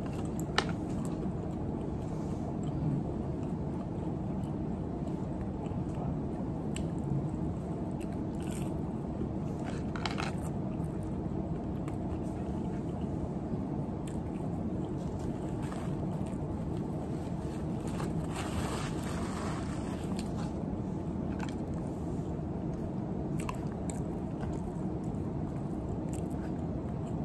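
Close-up chewing and biting of fried mozzarella sticks and pasta, with a few sharper crunches and small clicks scattered through.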